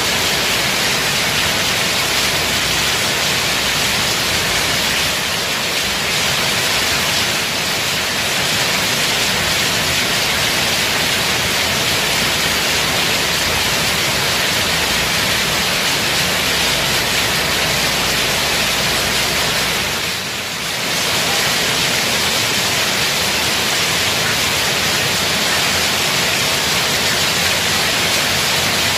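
Heavy rain pouring down steadily, a dense even hiss. It eases briefly about two-thirds of the way through.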